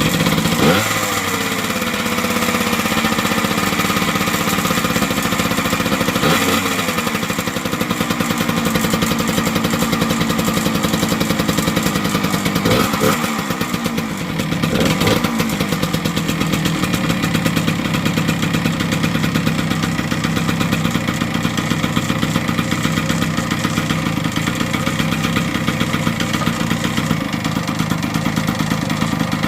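1978 Yamaha DT100's two-stroke single-cylinder engine running, blipped a few times (near the start, about six seconds in, and twice around thirteen to fifteen seconds) with the revs falling back each time, then idling steadily.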